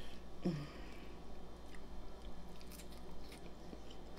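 A person chewing food close to the microphone, with faint, irregular wet mouth sounds. There is a brief vocal hum about half a second in.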